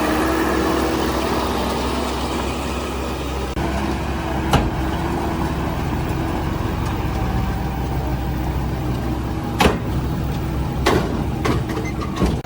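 Diesel engine of heavy earthmoving machinery running steadily, with a few sharp knocks, one about four seconds in and several more near the end.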